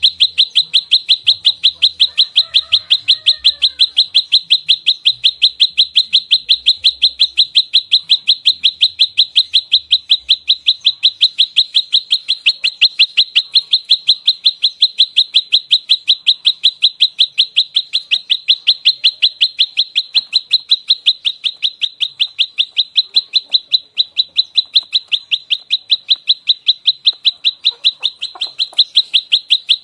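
Prenjak lumut calling in its fast, tightly packed fighting call: a steady, unbroken string of sharp, high chips, several a second, each at about the same pitch.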